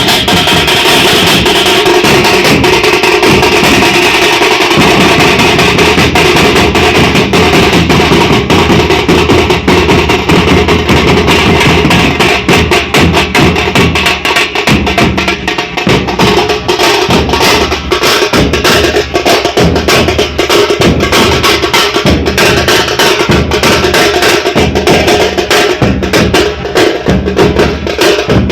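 A drum band playing a loud, fast, dense rhythm without a break.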